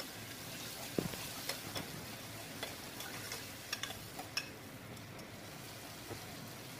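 Diced potatoes frying in ghee in an aluminium pressure cooker, a faint steady sizzle, while a steel ladle stirs them and clinks and scrapes against the pot. The clinks come several times and stop after about four and a half seconds, leaving the sizzle.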